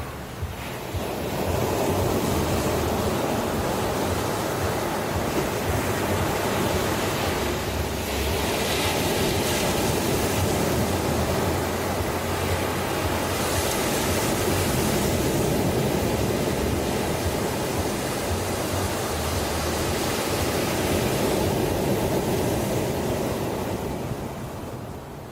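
Ocean waves washing onto a shore as a steady rush of surf. The surge swells about a second in and ebbs near the end.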